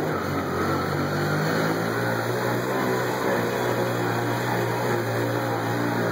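Taxi's car engine running steadily at low speed, heard from inside the cabin, its low hum dropping slightly in pitch about a second in.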